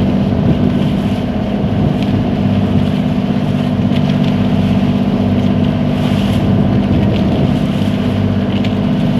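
Motorboat engine running at a steady pitch, a constant low drone with the hiss of water and wind over it.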